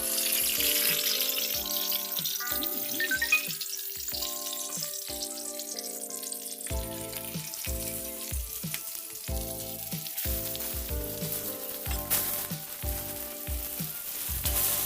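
Food sizzling in hot oil, starting suddenly as it goes into the pan and loudest in the first few seconds, then settling to a steadier sizzle.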